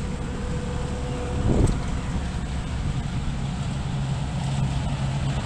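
Steady hum and fan noise of several running Carrier heat pump outdoor units, with a brief thump about a second and a half in.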